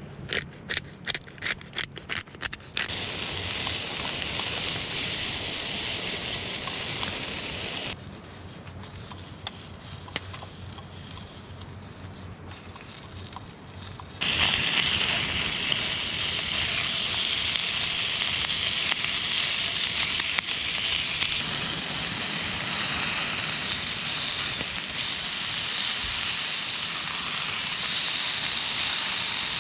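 Crackling and hissing of a campfire, rising to a louder steady sizzling hiss about halfway in. It opens with about eight quick, sharp knocks.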